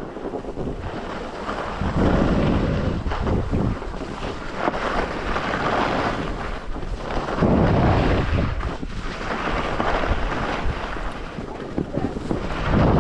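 Wind rushing over the microphone, a steady noise that surges louder several times, about two seconds in, through the middle and again near the end.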